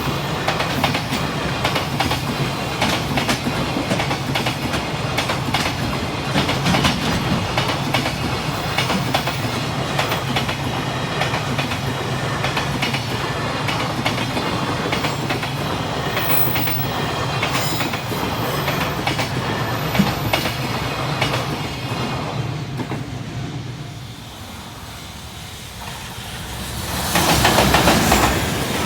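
Freight train passing, its wagons' wheels clacking over the rail joints in a steady run of clicks. The noise falls away after about 23 seconds, then a loud rush swells up briefly near the end.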